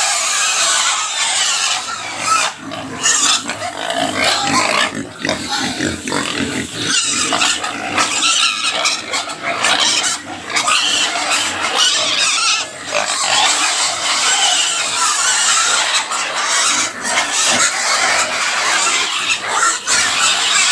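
Pig squealing loudly and almost without a break: a harsh, shrill, ear-piercing scream with only brief pauses for breath.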